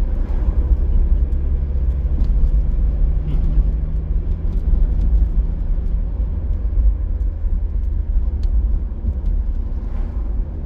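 Car driving along a road: a steady low rumble of engine and tyres, with a few faint light clicks.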